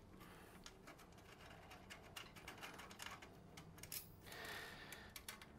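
Faint clicks and ticks of a screwdriver working the panel screws of an espresso machine, with a faint scrape a little after four seconds in; otherwise near silence.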